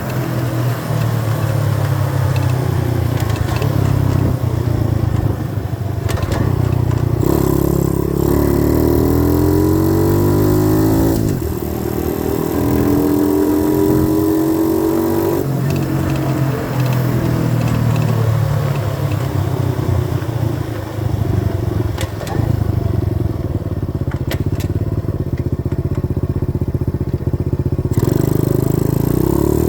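90cc dirt bike engine running under way: its pitch climbs as it accelerates, drops suddenly at a gear change about eleven seconds in, holds steady for a few seconds, then settles lower as the throttle eases.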